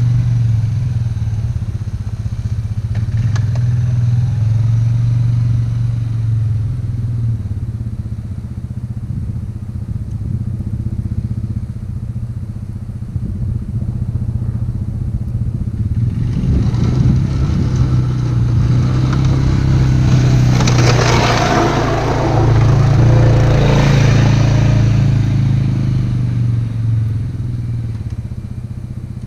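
ATV engine running steadily under load while plowing snow. About halfway through, a louder rushing, scraping noise from the plow blade pushing snow rises over the engine, then fades before the end.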